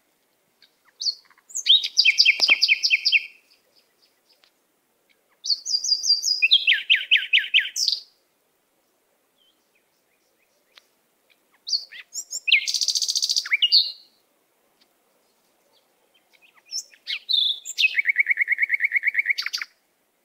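A songbird singing four phrases a few seconds apart, each a run of rapid trilled notes that changes pitch partway through.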